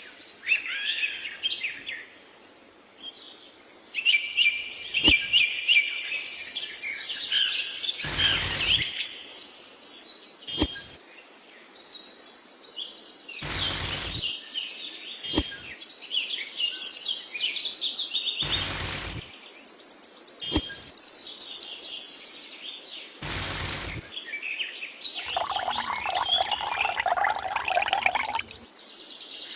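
Small birds chirping and twittering, broken about every five seconds by a short loud burst of noise, with a few sharp clicks in between.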